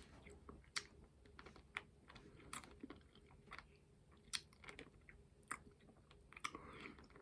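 Faint mouth sounds of a hard candy being sucked and chewed, with irregular small clicks as the candy knocks against the teeth.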